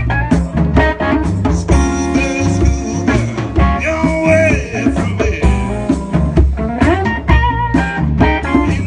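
Live band playing a mambo-style blues number in B flat, with guitar over a steady drum beat.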